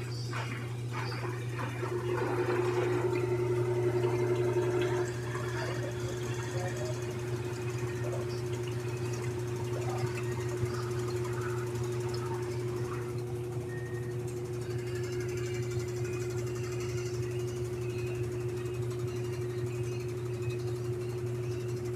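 Samsung 10.5 kg washing machine on its final spin: a steady motor hum with a steady whine over it, a little louder for a few seconds near the start.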